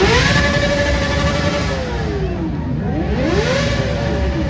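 A vehicle engine revved hard twice: it climbs fast and holds high for over a second, drops back, then revs up again about three seconds in and falls away near the end.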